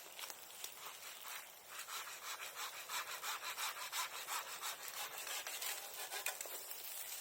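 Hand saw cutting through wood in steady back-and-forth strokes, about two a second, getting stronger after the first second or so.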